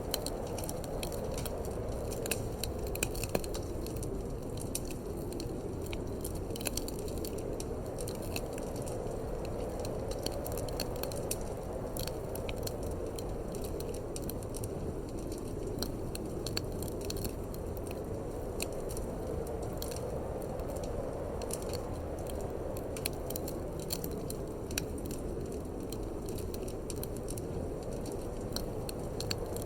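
Wood fire crackling in a fireplace, with irregular sharp pops and snaps over a steady low rush of wind.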